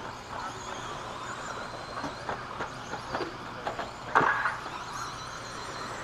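Radio-controlled stadium trucks racing around the track, a steady mix of motor and tyre noise, with a run of sharp knocks and clacks from the trucks landing and hitting things, the loudest a little past four seconds in.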